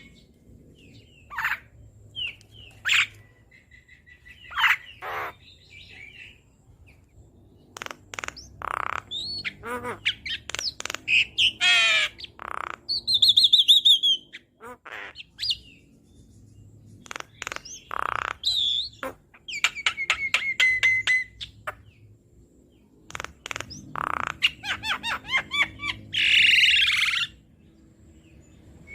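Javan myna (jalak kebo) singing vigorously in a varied stream of short phrases: whistles that slide in pitch, harsh squawking notes and fast trills, with brief pauses between bursts.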